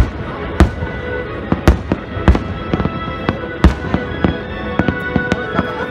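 Aerial firework shells bursting: a rapid series of sharp bangs, the biggest right at the start and at about 0.6, 1.7, 2.3 and 3.7 seconds in, with smaller cracks between them. Music plays underneath.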